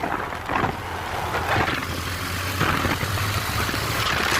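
Motorcycle engine running with a steady low hum while riding on the road, under rushing road and wind noise that swells and fades.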